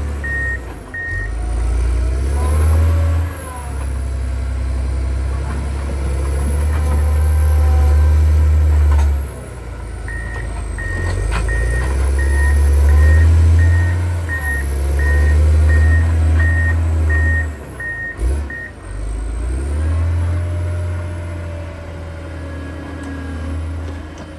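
John Deere 670 motor grader's diesel engine working under varying load, its level rising and falling. Its reverse alarm beeps about twice a second at the start and again for about eight seconds midway through.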